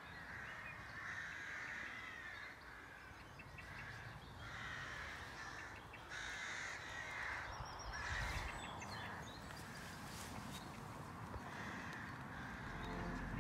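Birds calling over and over, faint, with a short call about every second.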